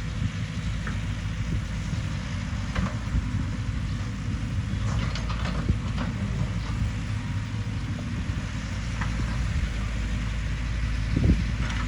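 Heavy construction machine's diesel engine running steadily at low revs, with a few short knocks and clanks from the machine's work.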